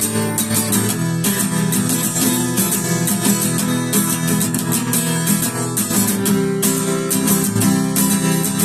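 Acoustic guitar strummed steadily, playing the song's chords in an instrumental break with no singing.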